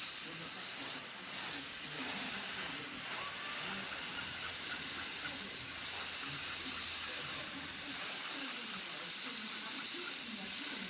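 Paint being sprayed onto a fireplace door: a steady, continuous spray hiss that starts abruptly and runs without a break.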